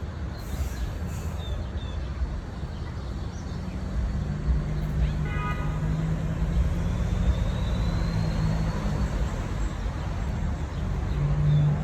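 Steady low rumble of city traffic, with a vehicle engine droning louder for a few seconds in the middle and again near the end.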